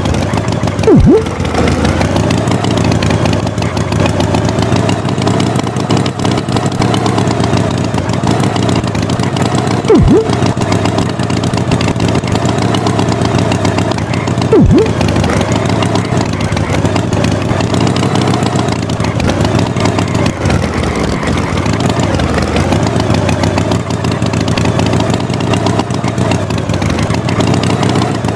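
Cartoon tractor engine running steadily, its pitch wavering slightly. Three brief, loud sounds drop sharply in pitch: about a second in, about ten seconds in, and near the middle.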